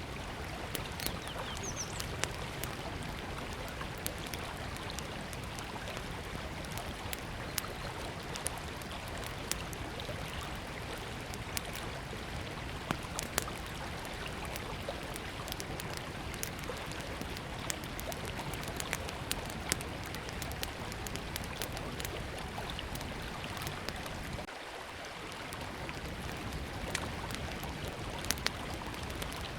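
Small wood campfire crackling, with frequent sharp pops and snaps, over the steady rush of a river.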